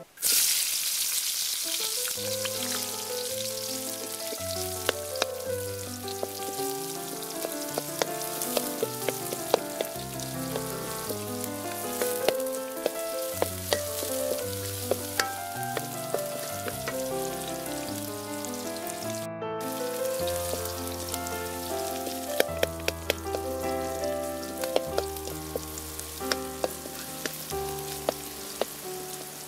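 Hot oil in a steel wok sizzling loudly as chopped green onion is dropped in, then frying steadily while a wooden spatula stirs and knocks against the wok. Background music plays underneath.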